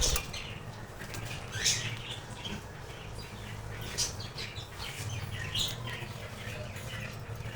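Budgerigars making a few short, scattered chirps, over a low steady hum.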